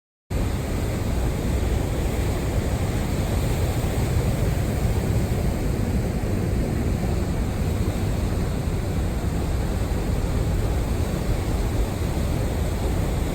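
Steady roar of strong gusty wind and heavy surf, with the wind rumbling on the microphone. It cuts in suddenly just after the start.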